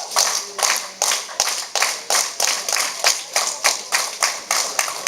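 Audience clapping in unison, a steady rhythm of about four claps a second.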